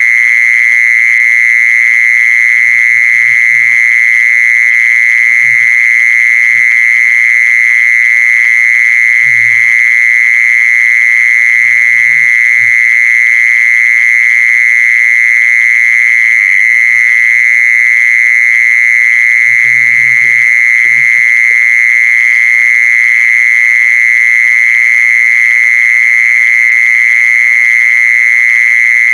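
Call of the insect known in Thai as jee-son (แมลงจีซอน): one continuous, loud, high-pitched shrill buzz held at a steady pitch without a break.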